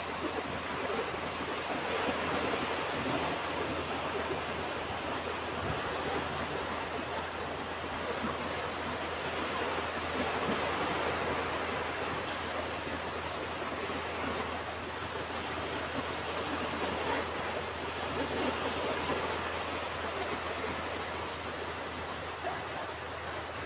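Ocean surf washing onto a beach: a steady rushing noise that swells and eases gently every several seconds.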